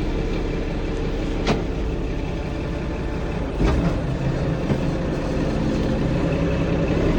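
International 1566 tractor's turbocharged diesel engine running steadily, with two sharp clicks, one about a second and a half in and one a couple of seconds later, and the engine getting slightly louder near the end.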